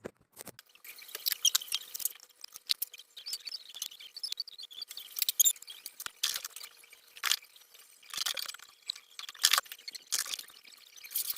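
Irregular wet scraping and clicking with dripping water, as clogged muck is cleared out of a washing machine's drain.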